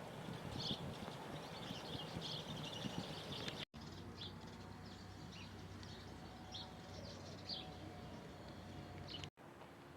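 Small birds chirping, short high calls repeated at irregular intervals over a steady background hiss. The sound cuts out abruptly twice.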